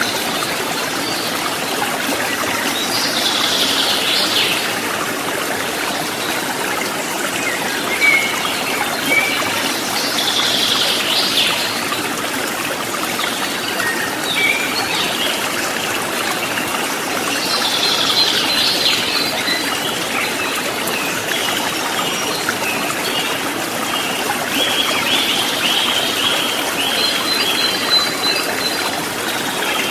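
Running water trickling and splashing steadily, with wild birds calling over it: a few short bursts of chirping spread through, and a run of quick repeated notes near the end.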